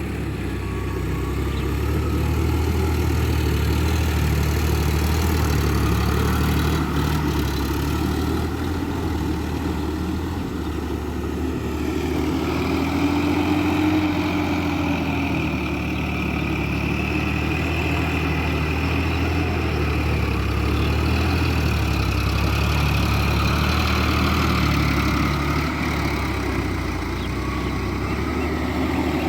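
Diesel engine of a Sonalika Worldtrac 60 RX 4WD tractor running steadily, with a fainter whine that drifts slowly up and down in pitch.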